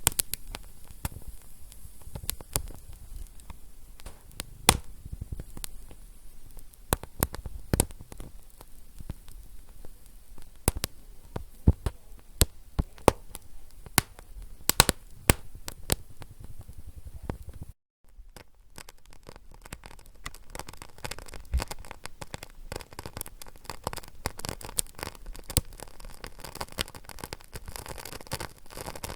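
Wood fire crackling, with sharp irregular pops over a soft hiss. A brief cut to silence comes about two-thirds of the way in, and after it the crackle is finer and denser, with more hiss.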